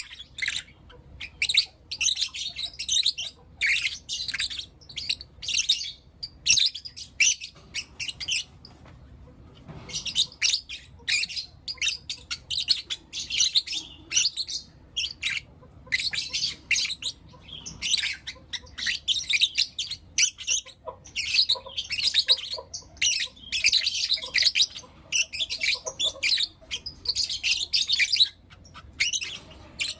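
Pet lovebirds chirping and calling: rapid, shrill high-pitched chirps in quick clusters, with a short lull about a third of the way through.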